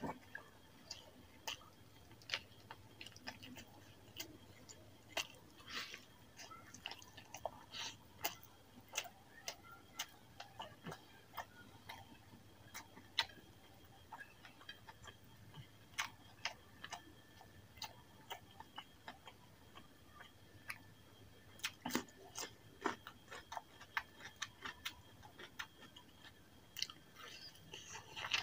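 Close-miked chewing of rice and chicken curry eaten by hand: irregular wet mouth clicks and lip smacks.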